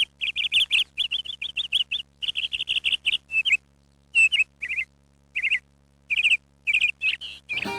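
A songbird chirping in quick runs of high, rapid notes, broken by short pauses. Acoustic guitar music comes in near the end.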